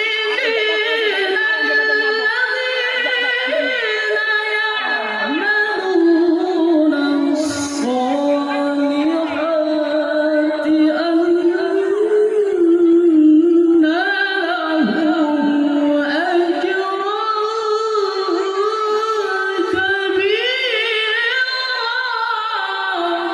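A qari reciting the Quran in a high voice: long held, melismatic phrases with sliding ornaments, broken by a short pause for breath midway.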